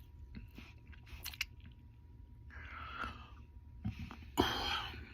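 A person chewing a mouthful of burger, with small wet mouth clicks and a couple of short breathy noises.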